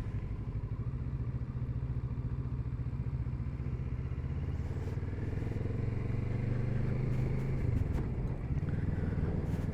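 Kawasaki Z650RS parallel-twin engine running steadily while the motorcycle is ridden, getting slightly louder from about the middle, with a brief change in the engine note about eight seconds in.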